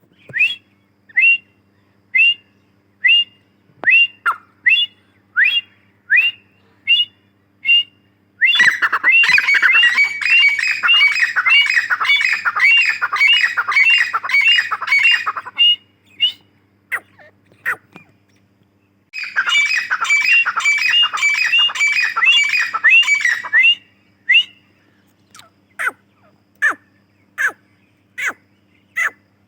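Female teetar (francolin) calling: sharp single notes about two a second, then a long bout of rapid chattering calls lasting about seven seconds, a few seconds' pause with scattered notes, a second shorter chattering bout, and single notes again. A faint steady hum lies underneath.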